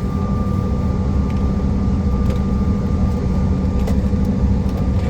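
Airliner cabin noise during taxi after landing: a steady low rumble from the engines and the rolling aircraft, with a steady hum and a few faint rattling clicks.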